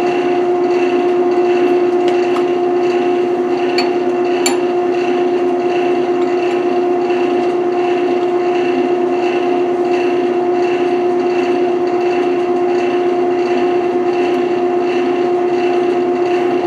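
Wood lathe running steadily with a constant motor hum, with a couple of faint clicks about four seconds in.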